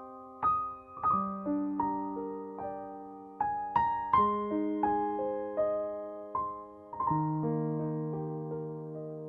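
Background music: a slow, gentle piano melody, single notes and chords struck and left to ring and fade.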